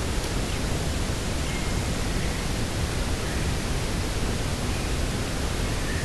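Steady rushing wind noise, heavy in the low end, with a few faint short high chirps of distant birds.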